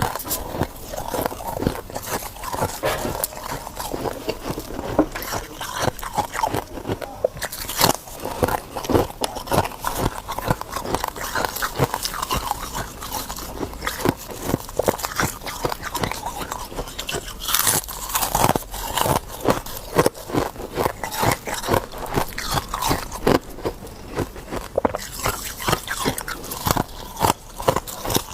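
Ice being bitten and chewed in dense, rapid crackling crunches, with a louder burst of crunching about two-thirds of the way through.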